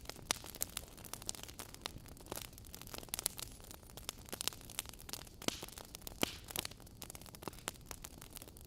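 Wood fire burning in a fireplace, logs crackling with irregular sharp pops and snaps over a soft hiss.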